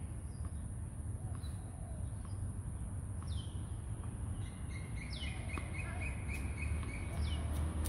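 Birds calling: a few quick calls that sweep down in pitch, and in the second half a bird repeating a short chirp about three times a second.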